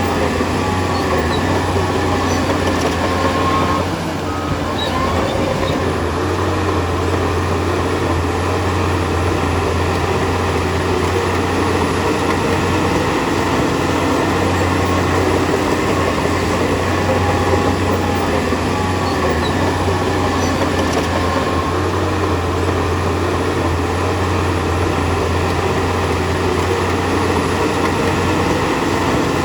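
Diesel engine of heavy earthmoving machinery running steadily under load, with a deep, constant low hum and a brief slight dip about four seconds in.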